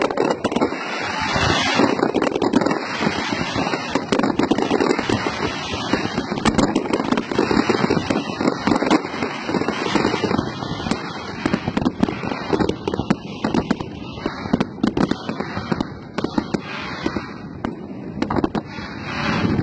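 Fireworks display: rapid, continuous popping and crackling of many shells bursting, swelling louder near the end.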